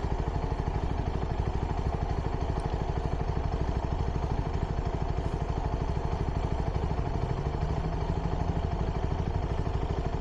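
CFMOTO 300NK's single-cylinder engine running at low, steady revs through its stock exhaust, with an even, rapid beat. Its pitch rises slightly about seven seconds in.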